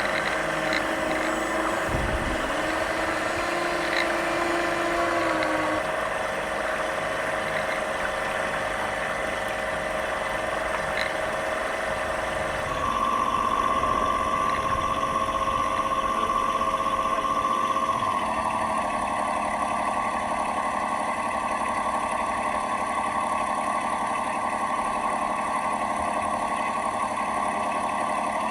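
Engine sound unit of a 1/12 scale Tyne class lifeboat model, giving a steady engine note that jumps to a new pitch in steps a few times. The jumps reflect the ailing speed controller feeding it, which made the engine sound erratic.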